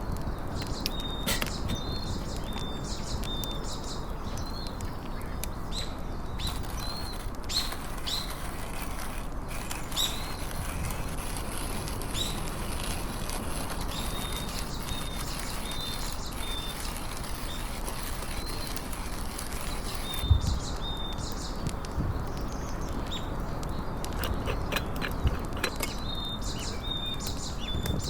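Small birds chirping in short, repeated high notes over a steady outdoor background, with scattered clicks and knocks, one louder knock about two-thirds of the way through.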